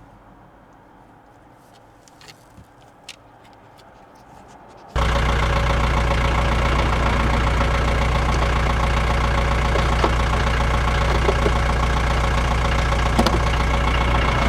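Chinese diesel heater running: its blower motor gives a loud, steady hum and whine that starts abruptly about five seconds in, after a few faint clicks. No fuel-pump ticking comes through, and the owner takes this to mean the pump is not working and the heater is not firing.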